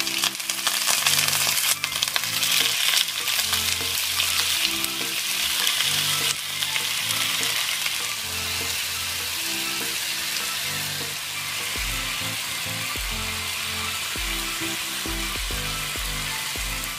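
Chicken pieces sizzling as they fry in a hot wok, loudest for the first six seconds or so and then settling to a steady sizzle.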